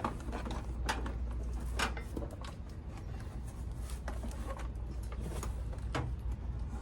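Knocks and rubbing of stored household items being shifted and pulled free by hand, with sharper knocks about one, two and six seconds in, over a steady low hum.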